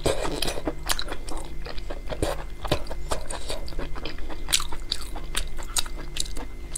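Close-up chewing of pork large intestine: a quick, irregular run of mouth clicks.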